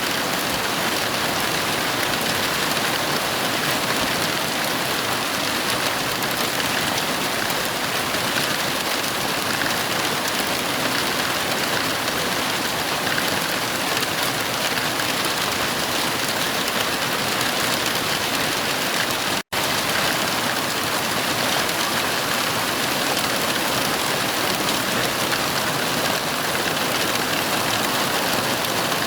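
Heavy rain falling steadily, an even hiss with no thunder. It cuts out for an instant about two-thirds of the way through.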